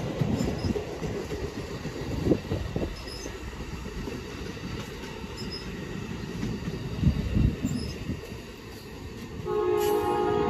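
A train rolling on the track: a low rumble with irregular clanks and thuds. About nine and a half seconds in, a locomotive's multi-note air horn starts and holds a steady chord.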